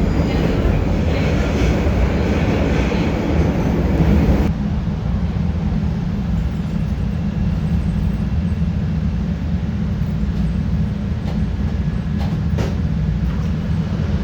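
CTA Red Line subway train heard from inside the car, running through the tunnel with a loud, steady low rumble as it nears the next station. About four and a half seconds in, the higher part of the noise drops away suddenly, leaving the low rumble, and a few sharp clicks sound near the end.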